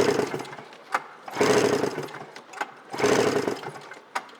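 A 1998 Yamaha Mountain SRX 700 two-stroke triple engine being cranked over for a compression test on its magneto-side cylinder, in three short surges about one and a half seconds apart, with a sharp click between them. The gauge then reads 125 psi, a healthy reading.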